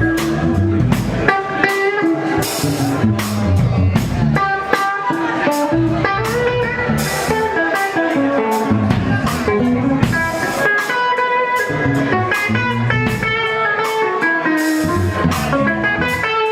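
Blues band playing an instrumental passage: an electric guitar plays single-note lead lines with bent notes over a drum kit's steady beat and a bass line.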